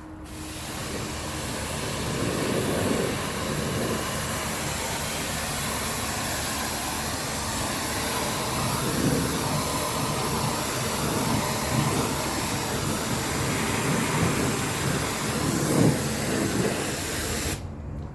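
High-pressure washer spraying water onto a truck: a steady, loud hiss that cuts off suddenly near the end when the spray stops.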